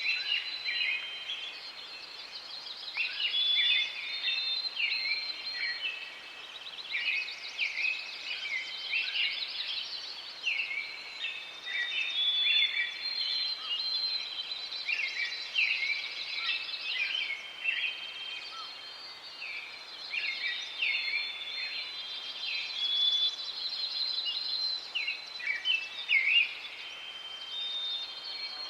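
Several birds singing and chirping at once, a dense chorus of short overlapping trills and high chirps that carries on without a break.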